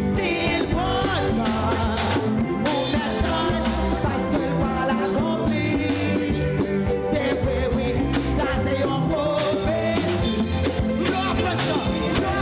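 Live church band music with singing: a steady upbeat rhythm with bass, drums and sung melody.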